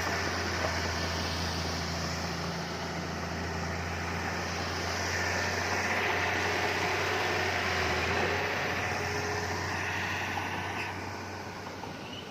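Diesel engine of heavy earthmoving equipment running steadily with a low hum, a rushing noise swelling in the middle and easing off near the end.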